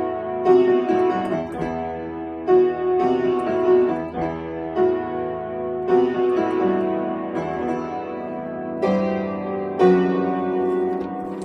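Solo piano playing an arrangement of a pop song, with chords struck about once a second over held notes and a strong accented chord near the end.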